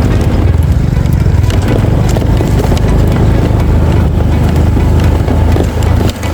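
A small engine running steadily and loudly at close range, a low rough drone.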